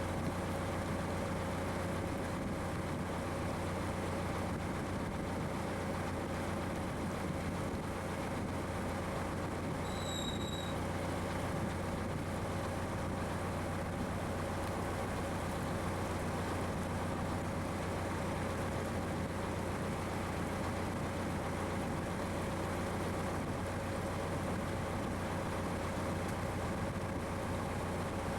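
A boat's engine runs steadily at an even pitch, with a constant low hum. A single short high chirp comes about ten seconds in.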